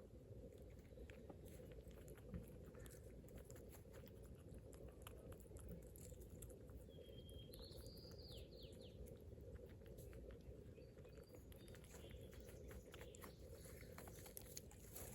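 Faint, rapid clicking and crunching of a squirrel chewing food, with a short chirping bird call about halfway through, over a low steady background hum.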